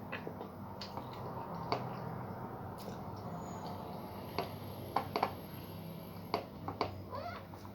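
Eating sounds: scattered light clicks and taps on a dish with wet mouth noises, over a steady low hum; the sharpest clicks come in a cluster between about five and seven seconds in.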